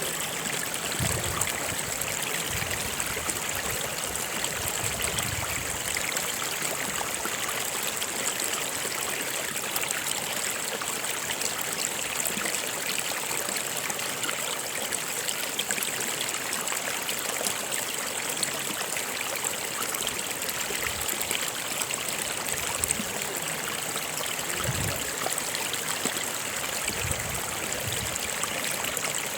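Stream water flowing steadily over rocks, an even rushing trickle with a few low gurgles now and then.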